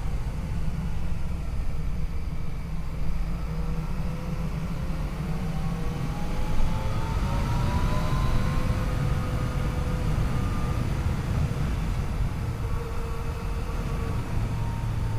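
Yamaha FJ-09's 847 cc three-cylinder engine running under way, with wind and road noise. The engine pitch rises from about five seconds in as it accelerates, then holds steady.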